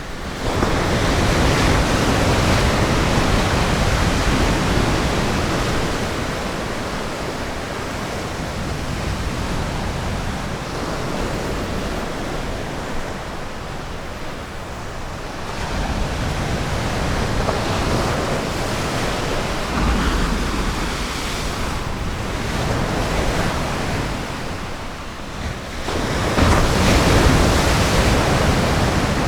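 Ocean surf on a beach: waves breaking and washing in, rising in louder swells about a second in, around the middle, and near the end.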